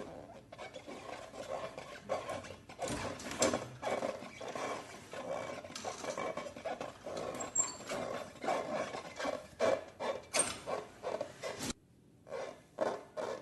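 Slime being squeezed and worked by hand: a rapid, irregular run of wet squishing and crackling sounds. It breaks off briefly near the end, then resumes.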